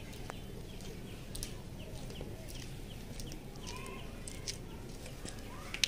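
Birds chirping in short, quick calls, over a steady low background rumble, with scattered clicks and a sharp click near the end.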